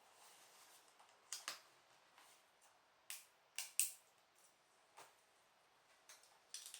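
Plastic LEGO bricks clicking and tapping as they are handled and picked through: scattered short, sharp clicks with quiet between them.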